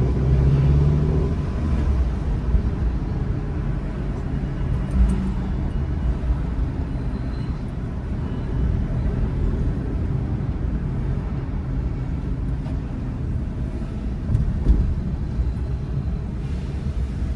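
Car driving, a steady low engine and road rumble heard from inside the cabin.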